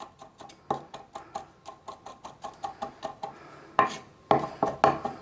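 Knife mincing a garlic clove on a chopping board: quick, steady taps of the blade, about four or five a second, growing louder about four seconds in.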